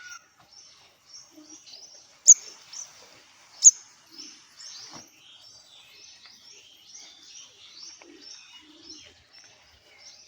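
Small bird chirping and twittering in quick, continuous high notes, with two much louder sharp calls a couple of seconds in.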